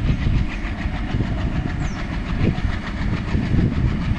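Low, steady rumble of an approaching diesel freight locomotive hauling a long container train.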